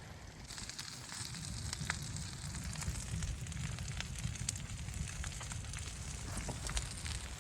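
Wood fire crackling, with scattered sharp pops and snaps over a steady hiss and low rumble.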